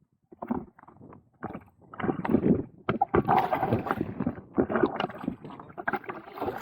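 Kayak being paddled: water splashing and gurgling in irregular bursts, louder from about two seconds in.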